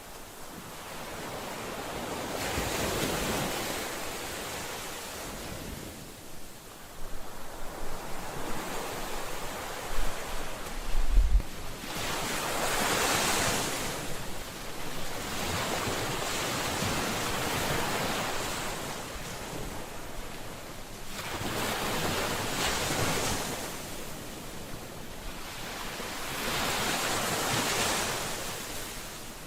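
Ocean waves breaking and washing ashore, rising and falling in slow surges about every four to five seconds. A few low thumps of wind on the microphone come about ten seconds in.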